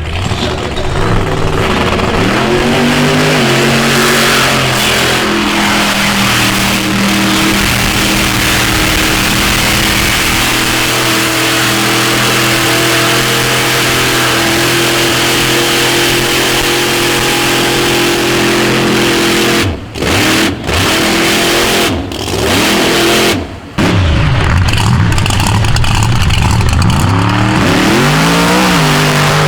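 Off-road vehicle engine held at high revs, its pitch rising and falling. Several times near the end the revs drop off sharply and then climb back.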